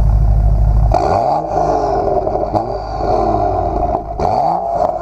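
A loud deep steady engine rumble that cuts off about a second in, then a car engine revved three times, each rev rising and falling in pitch.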